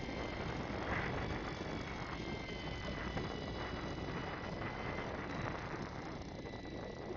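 Steady wind and sea noise aboard a fishing boat, with a thin steady high whine running through it and a few faint knocks.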